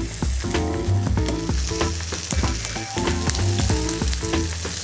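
Floured polenta slices frying in hot olive oil with a steady sizzle, and a few light taps of a fork in the pan. Background music with a bass line plays underneath.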